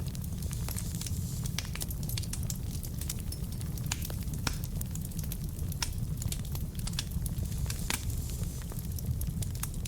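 Wood fire burning in a fireplace: a steady low rumble of flames with frequent irregular crackles and pops from the logs.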